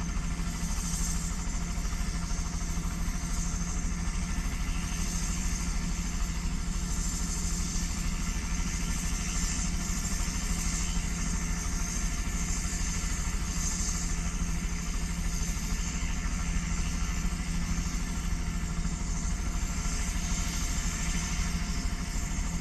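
Crop-dusting helicopter running steadily on the ground, its engine and rotor turning at a constant speed in an even, unbroken drone.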